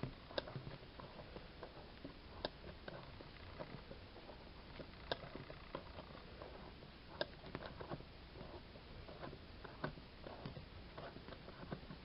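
Faint small mechanical clicks and ticks from a model uniflow engine's ball-valve mechanism being turned over slowly, with a sharper click about every two and a half seconds.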